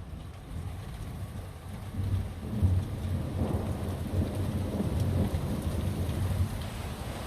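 Thunder rumbling over steady rain, swelling about two seconds in and easing off near the end.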